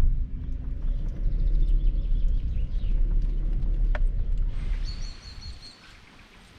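Vehicle rumbling along at low speed, cutting out about five seconds in. Just as it stops, a bird gives a quick run of about five high chirps.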